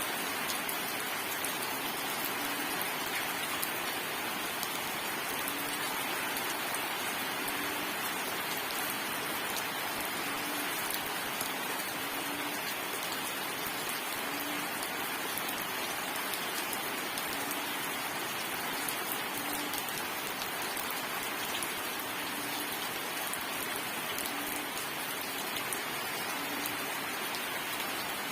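Steady rainfall: an even hiss with fine ticks of single drops striking, and a faint short low note recurring every second or two.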